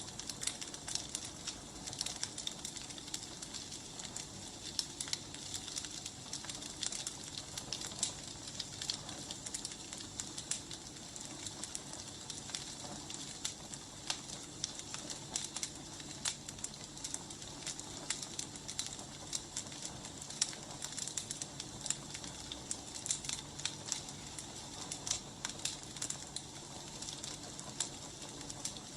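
Wood fire burning: a steady hiss with frequent, irregular sharp crackles and pops from the burning logs.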